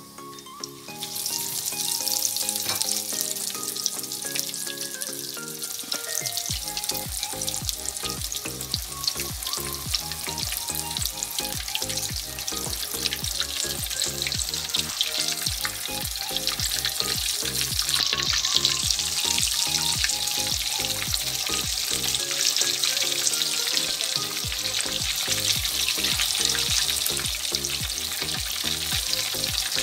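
Bread slices spread with a potato mixture shallow-frying in hot oil in a pan: a loud, steady sizzle that starts about a second in. Background music plays under it.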